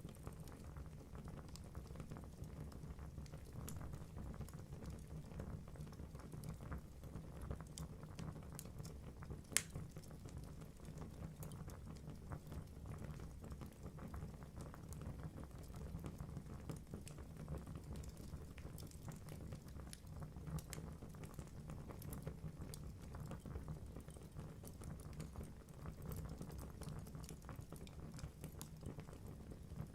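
Wood fire burning in a fireplace: a steady low rumble of flames with constant light crackling of the logs, and one sharp pop about nine and a half seconds in.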